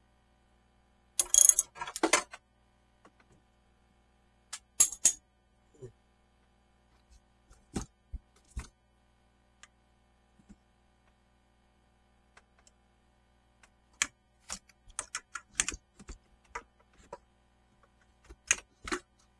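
Hand tools and small metal parts clicking and clattering as they are handled, with a brief rattle about a second in and scattered sharp clicks after it.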